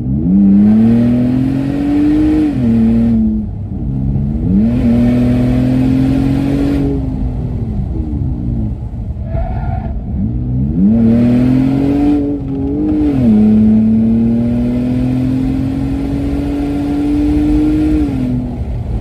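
Ford Taurus SHO Police Interceptor's twin-turbo V6, with its cat-back exhaust removed, heard from inside the cabin pulling hard through the gears on track. The pitch climbs and drops sharply at upshifts about three and twelve seconds in and again near the end. It falls away in the middle as the car lifts off for a corner.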